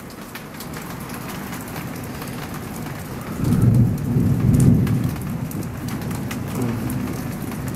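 Steady rain falling, with scattered drops ticking close by. A low rumble of thunder swells about three seconds in and fades over the next couple of seconds.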